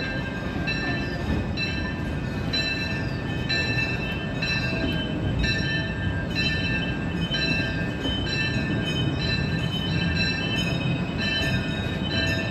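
Disneyland Railroad steam train running along the track: a steady low rumble with a rhythmic beat a little under twice a second, each beat carrying a high ringing tone.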